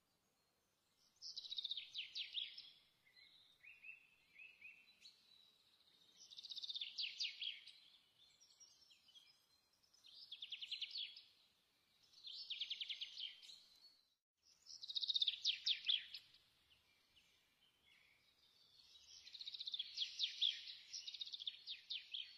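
A songbird singing short, rapid trilled phrases, about one every two to four seconds, with faint chirps in between.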